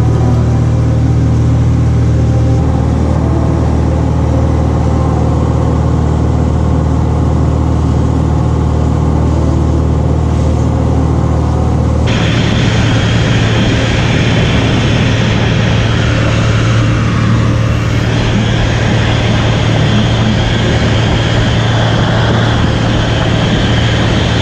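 Cessna 182's piston engine and propeller droning steadily. About halfway through, the sound changes abruptly and a strong hiss is added over the drone.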